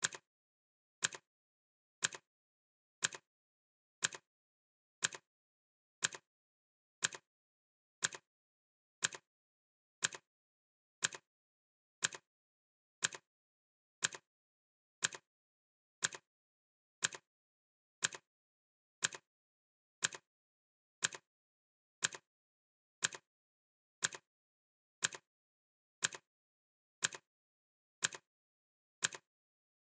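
Clock ticking sound effect: a steady, sharp tick exactly once a second, each tick alike, with silence between.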